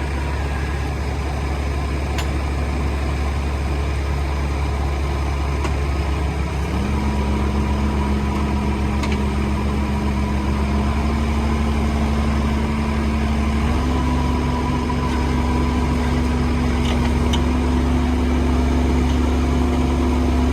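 Kubota KX057-4 excavator's diesel engine running steadily, its pitch stepping up three times as it is throttled up.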